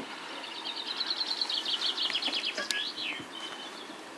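A songbird singing a rapid trill of short repeated high notes for about two and a half seconds, ending in a quick swooping note.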